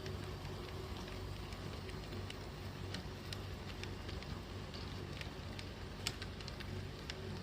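HO-scale model Shay locomotive and freight train running on track: a steady low motor and gear hum, with scattered sharp clicks of wheels passing over rail joints.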